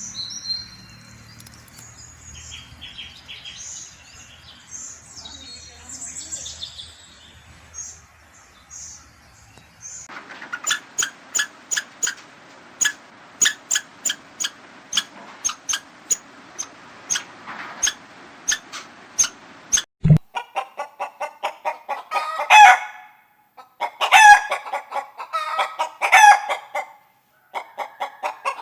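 Chickens calling: faint high chirps at first, then about a third of the way in a run of short sharp clucks about two a second. After a sudden cut about two-thirds through come louder drawn-out chicken calls, several in a row.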